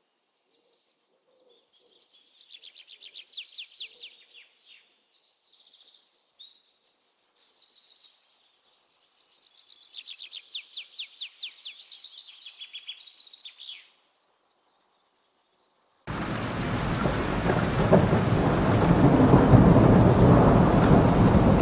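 A songbird singing fast trills of rapidly repeated notes with scattered chirps, in two main bursts. About sixteen seconds in, this cuts off abruptly to heavy rain with a low thunder rumble, which is the loudest part.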